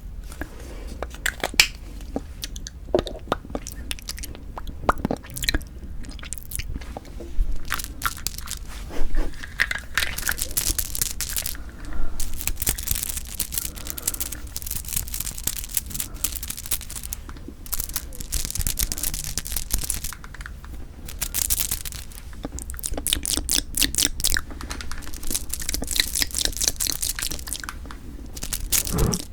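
Close-miked chewing and biting of Kiri cream cheese and ice rice cake: soft crunches and a dense run of mouth clicks, with several louder bites.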